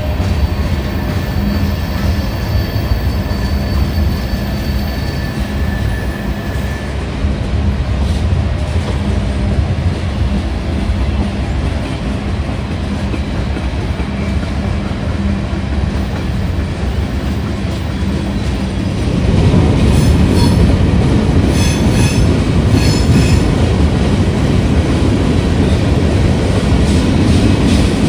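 Train rolling past on steel rails, a steady heavy rumble with a thin wheel squeal over the first several seconds. About nineteen seconds in it gets louder, with a quick run of wheel clicks over rail joints.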